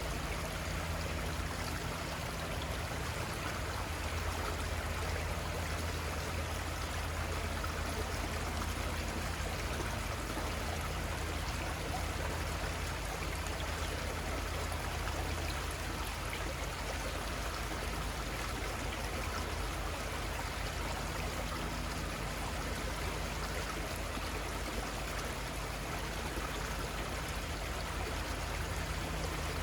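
Little Conestoga River flowing steadily: an even, continuous rush of moving water, with a low rumble underneath.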